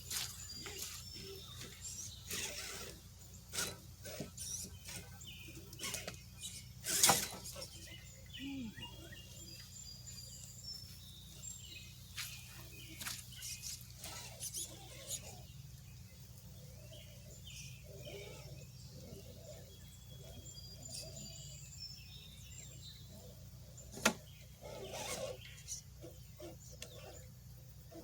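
Birds chirping outdoors, short high calls repeated throughout, over a steady low hum, with scattered knocks and scrapes, the loudest about seven seconds in and again near the twenty-four second mark.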